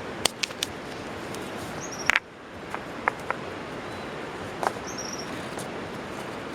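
Steady outdoor hiss with scattered sharp snaps and clicks, the loudest a double snap about two seconds in. A small bird gives a short high two-note call twice, about three seconds apart.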